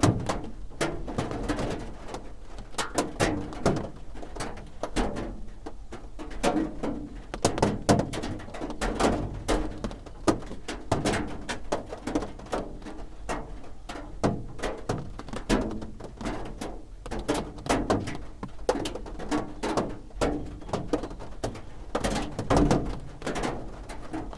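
Raindrops striking a roof in an uneven patter of separate taps, many of them with a dull, lower knock beneath.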